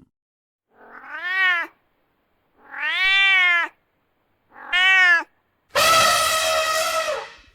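Domestic cat meowing: three separate meows, each rising then falling in pitch, then a longer, harsher call near the end.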